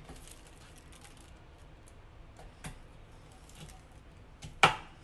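Knife cutting vegetables on a chopping board: a few scattered sharp knocks and taps, with a louder one about halfway through and the loudest near the end.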